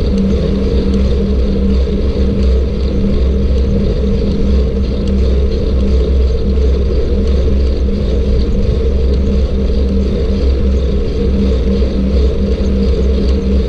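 Steady loud rumble of wind and road noise on a camera microphone riding along on a bicycle.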